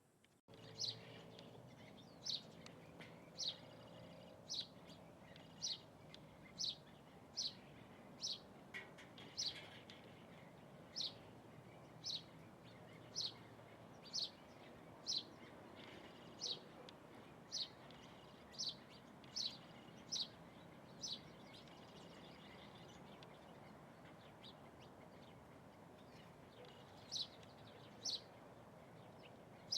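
A small bird repeating a single short, sharp, high call about once a second, pausing for a few seconds near the end before starting again, over a faint steady background noise.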